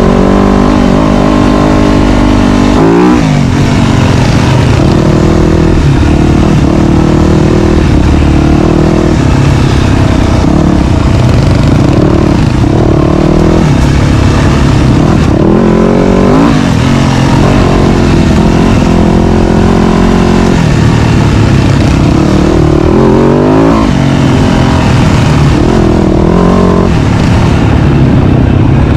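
Dirt bike engine running hard on a trail, its revs climbing and dropping over and over as the throttle is worked and gears change.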